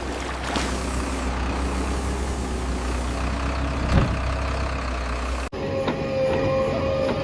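Heavy truck engines running steadily, with a single knock about four seconds in. The sound changes abruptly at an edit near the end to another steady hum with a held tone.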